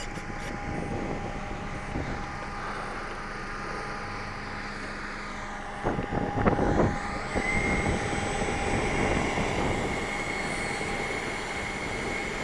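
Electric ducted fan of a Freewing Avanti S 80mm RC jet, driven by an 1857 kV 36 mm inrunner, whining at low throttle as the plane taxis. A higher steady whine sets in about halfway through, over heavy wind buffeting on the microphone.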